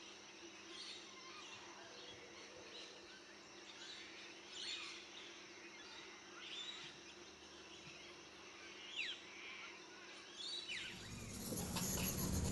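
Faint bird calls: scattered short chirps and quick downward-sliding whistles over a steady background hum. Near the end the sound changes abruptly to a louder, rushing noise.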